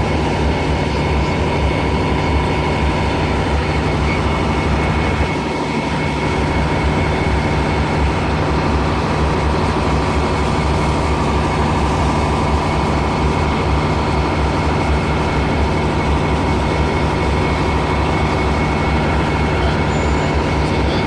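Diesel engines of C class diesel-electric locomotives running steadily with a low, even throb.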